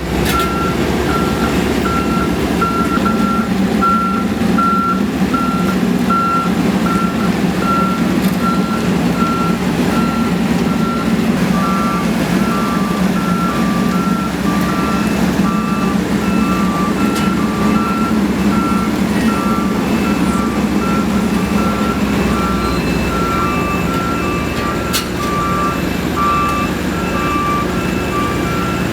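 Reversing alarms beeping on road-paving machines over the steady drone of their engines. One alarm beeps about once a second throughout, a second, lower-pitched one joins about twelve seconds in, and a third, higher one about fifteen seconds in.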